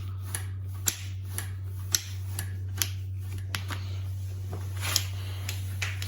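Light, sharp clicks and snaps at irregular intervals from hand work on a motorcycle's carburetors and throttle linkage, over a steady low hum.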